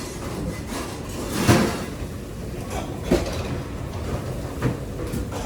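Restaurant kitchen during service: a steady low rumble with three knocks or clatters of cookware, about a second and a half apart, the first the loudest.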